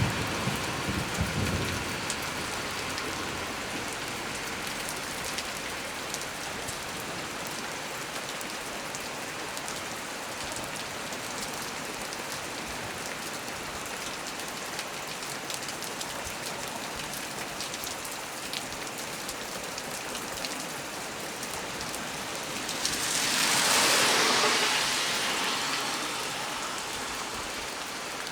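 Heavy rain falling steadily on a small tree, with scattered drop ticks. A low rumble of thunder fades out in the first couple of seconds, and a louder rushing swell lasting about two seconds comes near the end.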